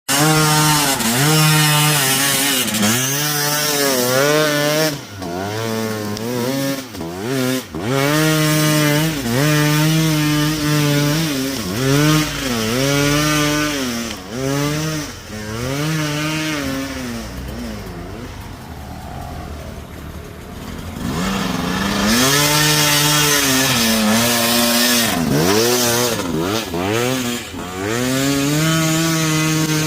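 Enduro motorcycle engine revving up and down again and again as the throttle is opened and closed while riding, easing off to a quieter, lower drone for a few seconds past the middle before pulling hard again.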